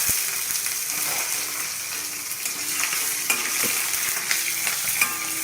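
Whole peeled shallots sizzling in hot coconut oil in a pan, stirred with a spoon that scrapes and knocks against the pan now and then.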